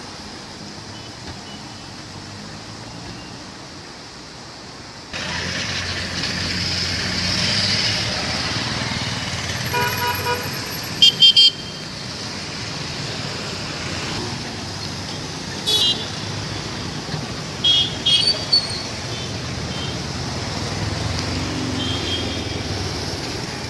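Road traffic running steadily, with car horns honking several short times, the loudest blasts near the middle. For the first five seconds there is only a quieter steady rush, like the river water just before, and then the sound cuts abruptly to the traffic.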